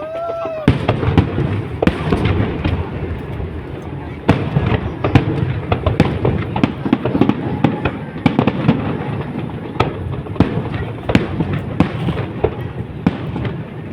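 Fireworks display: a short whistle that rises and falls in the first second, then a dense run of bangs and crackling bursts.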